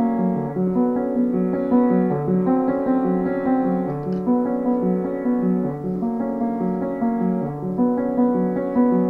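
Piano music: a repeating figure of low notes under sustained higher chords.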